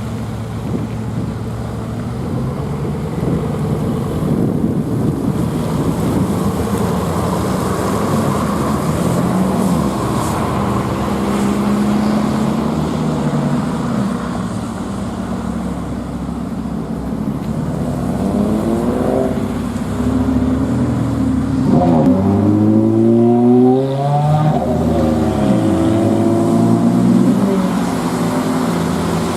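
Bugatti Veyron Grand Sport Vitesse's quad-turbo W16 engine under way, first a steady low drone. In the last third it pulls up in pitch several times, rising and dropping, as the car accelerates.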